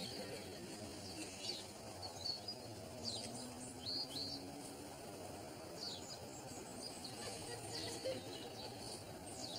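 Birds chirping: short high chirps every second or so over a steady low background hum of open-air ambience.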